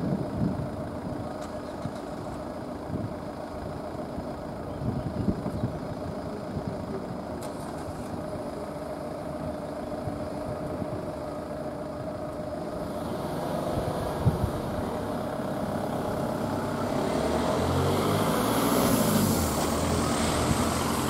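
Road vehicle engine running at low revs, then, from about three-quarters of the way in, getting louder and rising in pitch in steps as the vehicle pulls away and accelerates.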